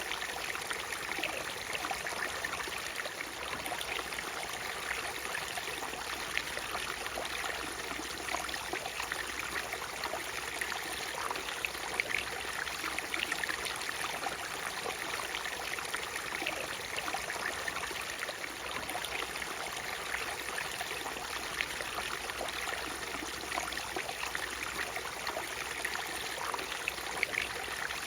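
Water of a natural waterfall running steadily, with many small splashes and trickles over a constant rush.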